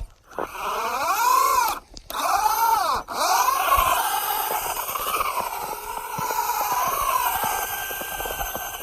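Traxxas Rustler 2WD RC truck's electric motor whining as it drives through snow, its pitch rising and falling with the throttle. The motor cuts out briefly about two and three seconds in, then runs on with repeated swells.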